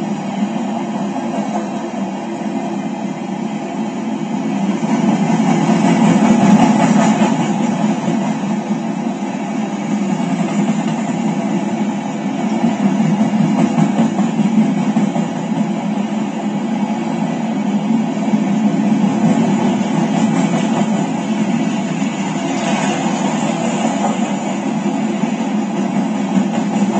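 Empty coal train cars rolling past on the rails: a steady rolling noise that swells a little about six seconds in, heard through a television speaker.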